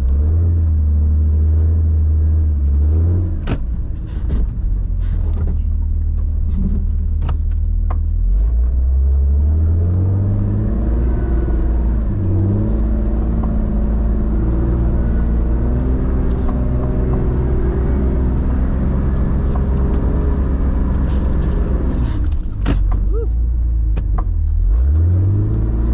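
Off-road 4x4 engine pulling through deep snow, its pitch rising and falling as the throttle changes, over a low rumble. A few sharp knocks cut through.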